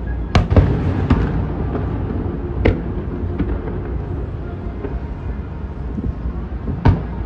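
Aerial fireworks bursting: a quick run of three sharp bangs in the first second, another a couple of seconds later and one more near the end, over a steady low rumble.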